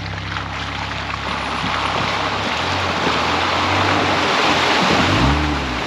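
Jeep Gladiator pickup driving through a deep mud puddle: water splashing and churning, growing louder, over a steady engine note. The engine revs up near the end.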